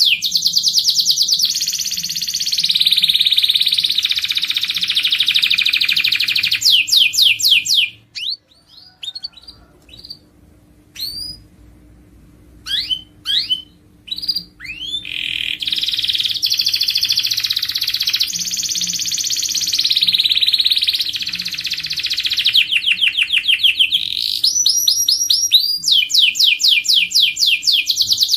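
Domestic canary singing in fast trills and rolling phrases. About eight seconds in the song breaks off into a few seconds of scattered short chirps, then the long trilled phrases resume.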